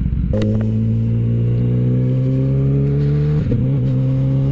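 Kawasaki ZX-10R inline-four engine coming onto the throttle sharply just after the start and pulling hard, its note rising steadily. About three and a half seconds in there is a quick gear change, and then the note keeps climbing.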